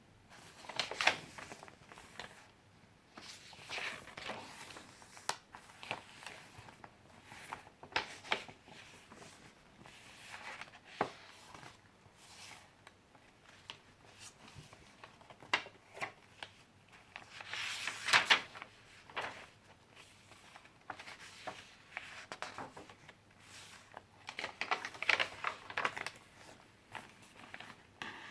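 Pages of a handmade junk journal being turned and handled: irregular short paper rustles and soft taps, with a few louder rustles along the way.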